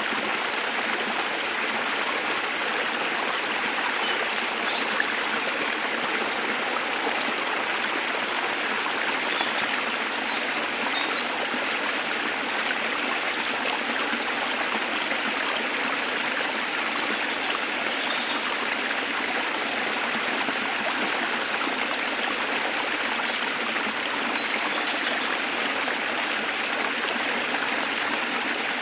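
Waterfall and stream water rushing steadily, with small birds chirping briefly now and then above it.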